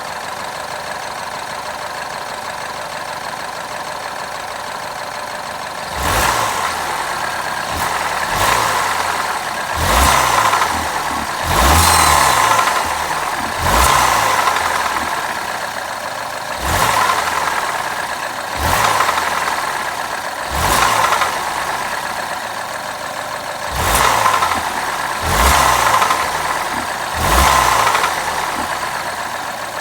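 BMW F20 116i's N13 1.6-litre turbocharged four-cylinder engine idling steadily, then revved in about a dozen short blips from about six seconds in, each dropping back to idle.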